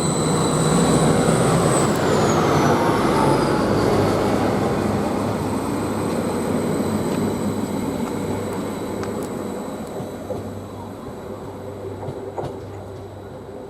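Greater Anglia Class 755 bi-mode multiple unit pulling away under diesel power, engines and wheels loud at first and fading steadily as it draws away. A high whine falls in pitch about two seconds in.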